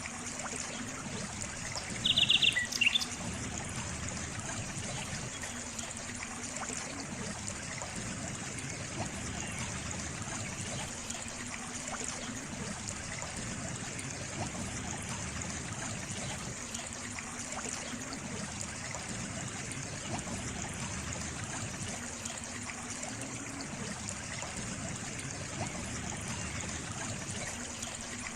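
Water trickling steadily, as in a small stream. About two seconds in, a bird gives a brief, rapid chirping call, louder than the water.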